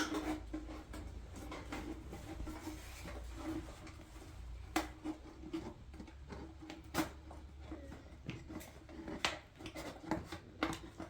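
Scattered sharp knocks and clicks of tools and parts being handled, about five in all, over a steady low hum.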